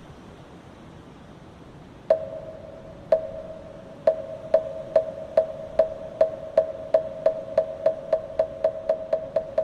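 A moktak, the Korean Buddhist wooden fish, being struck: about two seconds in come three slow strokes a second apart, then the strokes quicken steadily into a fast roll. Each stroke is a sharp knock with a short ringing note.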